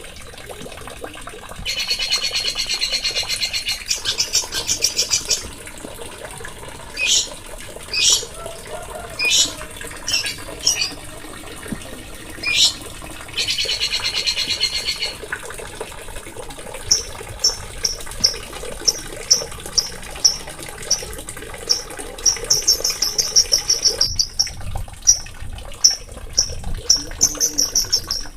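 Small songbirds singing. Two buzzy rapid trills, one near the start and one about halfway, are separated by single sharp high whistled notes, and from about two-thirds in comes a quick, even series of high chips.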